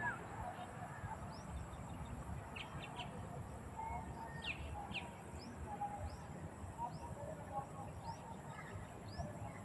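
Many birds chirping: short, high chirps scattered irregularly throughout, over a steady low rumble.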